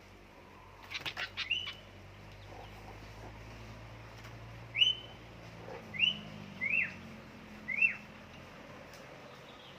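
Sooty-headed bulbuls (kutilang) calling: a quick run of sharp chirps about a second in, then four single short chirps that rise and drop back, each a second or so apart.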